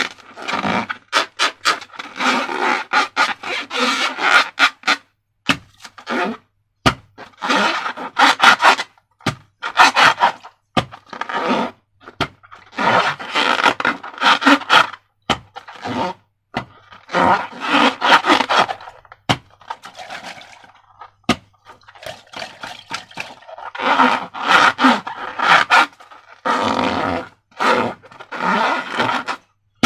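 Hands rubbing and squeezing rubber balloons and slime: repeated crackly, squeaky bursts a second or two long, with short pauses between them.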